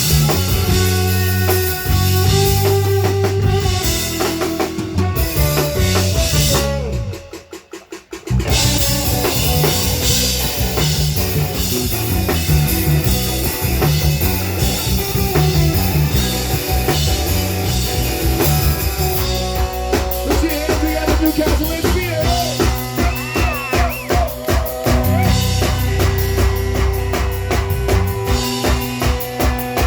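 A band playing live, with drum kit, bass and guitar. The music drops out briefly about seven seconds in and comes back in full, with a steady drum beat through the second half.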